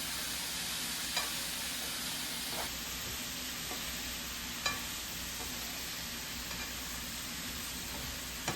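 Zucchini, mushrooms and garlic sizzling steadily in a frying pan while being stirred, with a few light clicks of the utensil against the pan.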